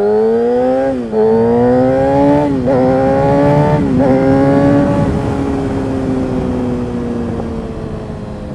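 2013 Kawasaki ZX-6R 636's inline-four engine, through an M4 GP-style aftermarket exhaust, accelerating hard up through the gears. The pitch climbs and dips sharply at three upshifts, about one, two and a half and four seconds in. After about five seconds it settles into a slowly falling note as the throttle eases.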